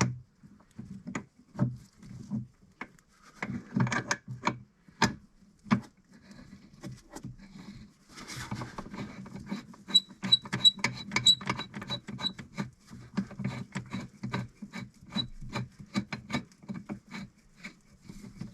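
Hands working an A/C hose fitting onto its receiver make irregular clicks, light knocks and rubbing. About ten seconds in, a quicker run of small clicks sets in, several of them with a faint metallic ring.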